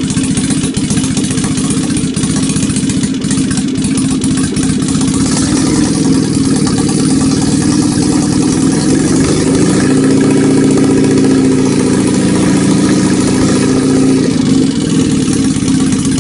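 Citroën 2CV's freshly rebuilt air-cooled flat-twin engine running steadily; about halfway through the engine speed is raised and held a little higher, then drops back to idle shortly before the end.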